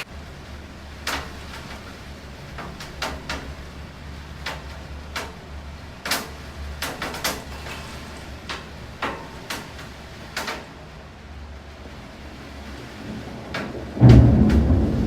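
Thunderstorm rain with large drops tapping irregularly on a hard surface over a low steady rumble; about fourteen seconds in, a loud clap of thunder breaks in suddenly.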